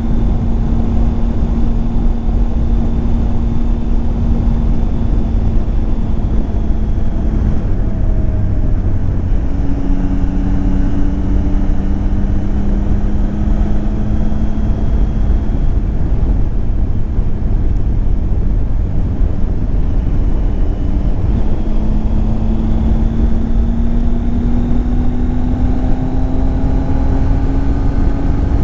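Triumph Tiger 800 XCX's inline three-cylinder engine under way, with heavy wind rushing over the microphone. The engine note holds steady, changes pitch about a quarter of the way in, eases off around the middle, then rises steadily toward the end as the bike accelerates.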